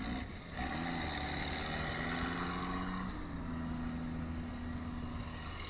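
Tractor engine running steadily at high revs, its pitch stepping slightly about three seconds in.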